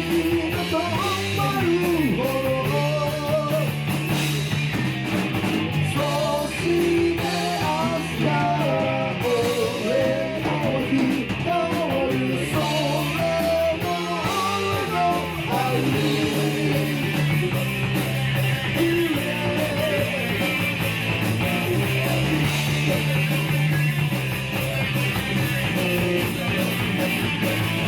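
Instrumental break in a rock song: a wavering lead line over guitar, bass and drums, with no lyrics sung.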